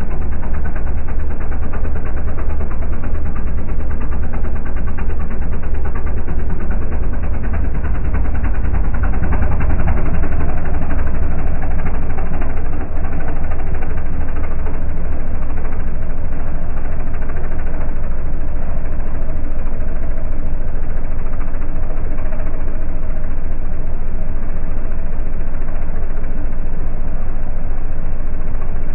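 Diesel drag car's engine running steadily at idle, a loud low rumble with no revving.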